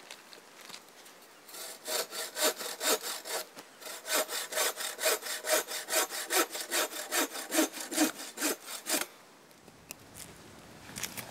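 Hand saw cutting through a jack pine log, with steady back-and-forth strokes at about two a second. It starts about a second and a half in, pauses briefly, then stops about nine seconds in.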